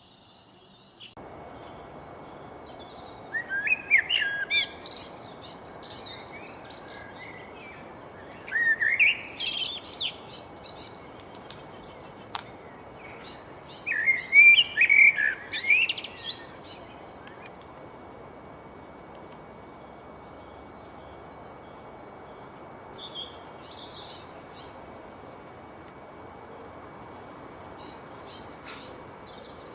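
A songbird singing in phrases of quick rising notes, three loud phrases a few seconds apart followed by two fainter ones near the end, over a steady background hiss.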